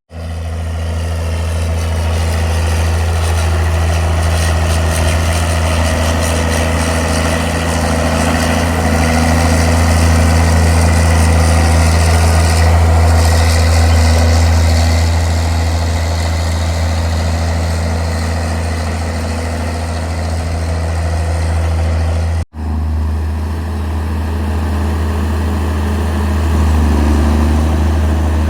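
An engine running steadily at idle with a deep, even hum. The sound cuts out for an instant about two-thirds of the way through, then carries on the same.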